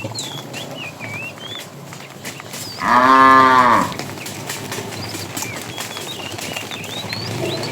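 A cow moos once, a single call about a second long near the middle that rises and falls in pitch, with small birds chirping in the background.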